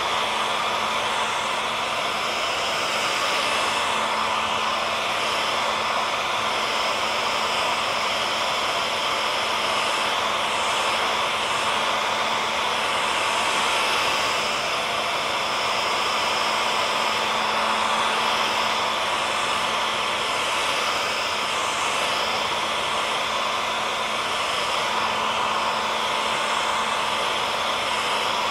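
Hair dryer running steadily: an even rushing of air with a faint motor hum, used as continuous white noise for sleep.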